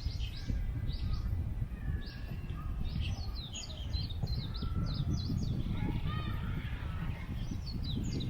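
Small birds chirping over and over in short, falling high notes, over a steady low rumble of wind on the microphone.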